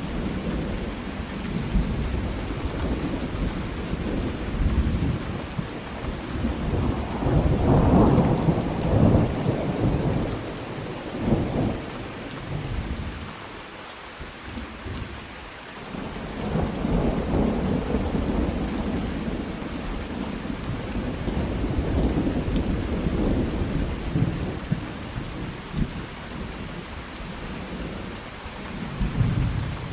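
Steady rain on a surface with rolling thunder that swells and fades several times; the loudest rumble comes about eight seconds in, with a brief lull around fourteen seconds.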